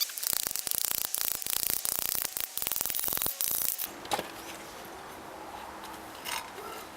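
Fast, irregular scraping or rasping strokes for about four seconds, then a single sharp click and a quieter stretch with a faint steady hum.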